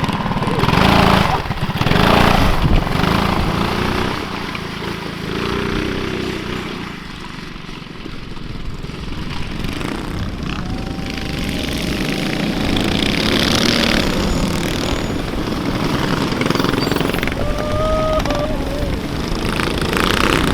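Small engines running at varying speed, louder in stretches, with some voices in the mix.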